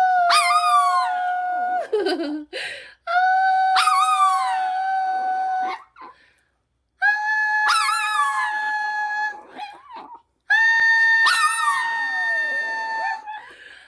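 Long-haired chihuahua howling along with a person's singing, in four long phrases with short breaks between them. Over the held sung notes the dog's howl swoops up and then slides down.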